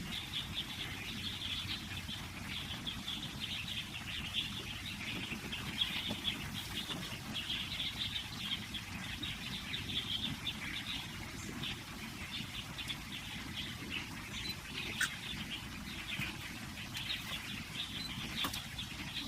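Birds chirping together with insects calling: a dense, continuous chatter of high chirps throughout, with a couple of sharp clicks in the second half.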